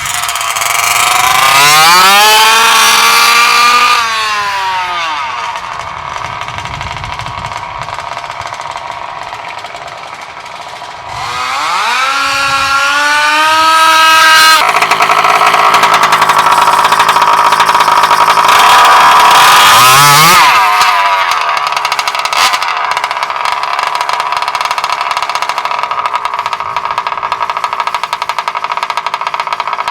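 Bartolone Racing BR40 big-bore two-stroke engine in a Losi 5ive-T 2.0 1/5-scale RC truck, revved up to full throttle and held for about two seconds, then dropping back. It runs up again about ten seconds in, stays loud for several seconds, then falls back to a steady idle for the last several seconds.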